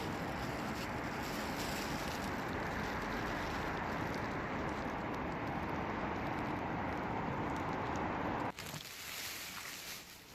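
Steady rushing outdoor noise with no distinct tones, cutting off abruptly about eight and a half seconds in and leaving a much quieter background with a few faint clicks.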